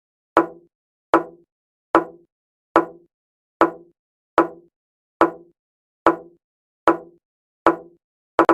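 Chess piece-move sound effect from a game replay, a short hollow wooden plop repeated about every 0.8 seconds as the moves play out automatically.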